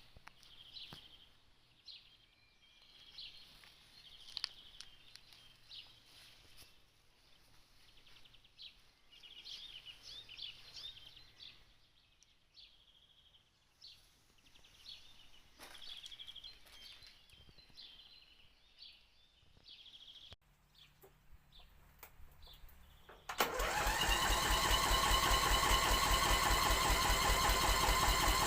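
Birds chirping faintly, then about 23 seconds in an old MTD lawn tractor's engine fires on a cold start and settles into a loud, steady run.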